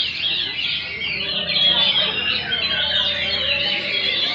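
Many caged songbirds singing at once: a dense, unbroken chorus of quick high chirps, trills and warbles overlapping each other.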